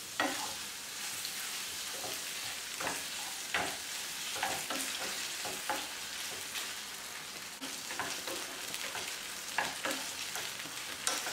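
Paneer cubes and tomato ketchup sizzling in hot oil in a non-stick frying pan. A wooden spatula stirs them, knocking against the pan at irregular moments.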